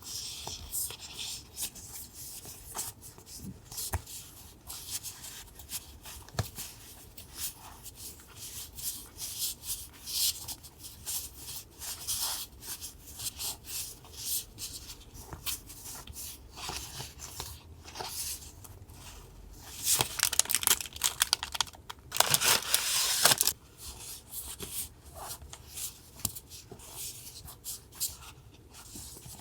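Paper being handled by hand, rustling and tearing in many short strokes, with a louder, longer stretch of rustling about twenty seconds in.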